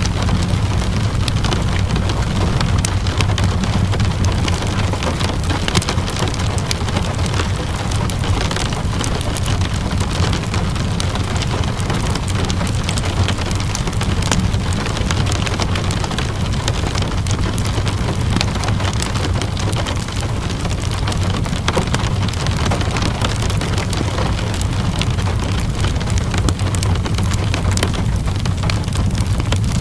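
Steady rainfall with a constant low rumble underneath, and frequent small sharp pops of a crackling wood fire scattered through it.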